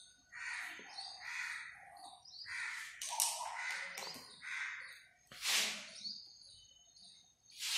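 Birds calling: a run of short, harsh, caw-like calls mixed with small high chirps. A brief hissing streak comes about five and a half seconds in.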